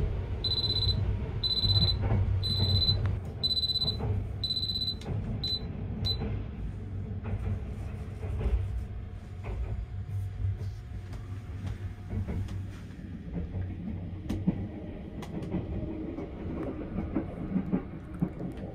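Sleeper express train running, heard from inside its compartment: a steady low rumble with scattered clicks from the track. Over the first six seconds a high beep repeats about once a second, then stops.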